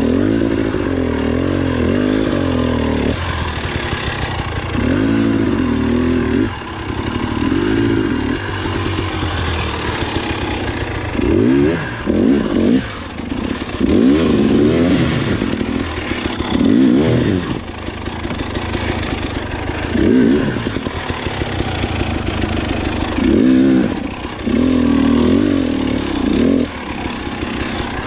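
Two-stroke KTM dirt bike engine revved in repeated bursts, pitch rising and falling about ten times, with brief drops toward idle between them, as it is worked up steep technical trail.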